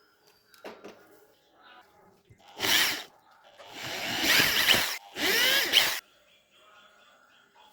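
A small electric power tool run in three short bursts, the last two longer, its pitch sliding up and down as it runs.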